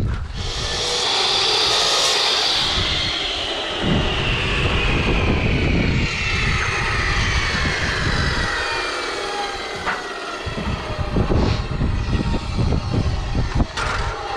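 A high-pitched power-tool whine, typical of an electric cutting tool used on masonry. It spins up just after the start, then sinks slowly in pitch over the next ten seconds, with irregular rumbling and a few knocks beneath it. The tool spins up again at the very end.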